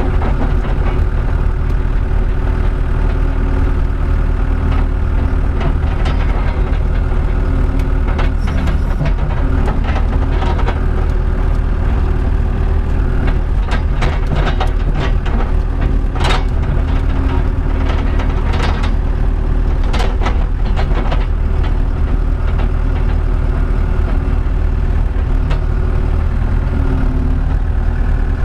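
Skid steer engine running steadily while it tows a trailer on its hitch attachment, with a series of short sharp clanks and squeaks about halfway through.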